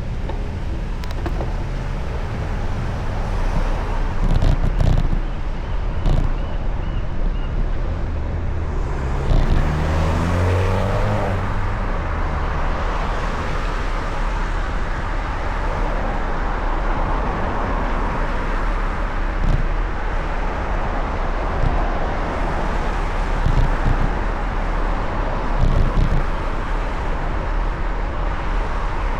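Road traffic heard from a moving bicycle: a steady wash of tyre and engine noise over a low rumble. About ten seconds in, a vehicle's engine rises and falls in pitch as it passes close by.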